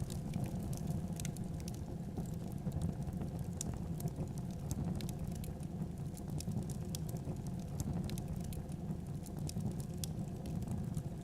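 Wood fire in a fireplace crackling: a steady low rumble of flames with many small irregular pops and snaps.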